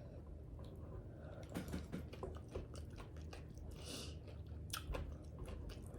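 Close-miked chewing of tacos: scattered soft crunches and wet mouth clicks.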